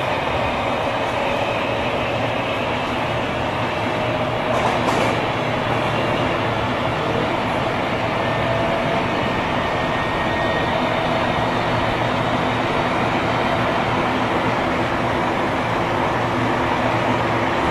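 Tobu 9000 series chopper-controlled electric train running at speed, heard from inside the car. Steady running noise carries thin, sustained motor and chopper tones, the unusual motor sound this car is known for. A brief clatter comes about five seconds in.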